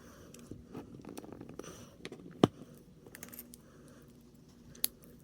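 Small plastic model-kit parts being handled and fitted together by hand: faint rustling with light clicks, and a sharp click about two and a half seconds in and another near the end.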